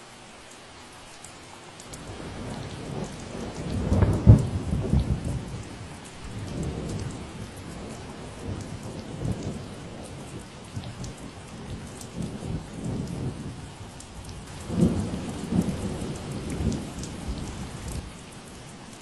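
Steady rain with a long roll of thunder rumbling underneath, starting about two seconds in, loudest twice (near four seconds and near fifteen seconds) and dying away shortly before the end.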